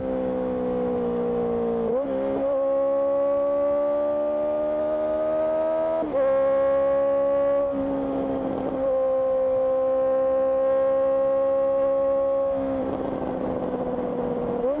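Honda CBR650R's inline-four engine through an IXIL IXRACE exhaust, running on the move at steady, fairly level revs. The note breaks and steps to a new pitch about two seconds in and again about six seconds in, as on a gear change, and grows rougher near the end.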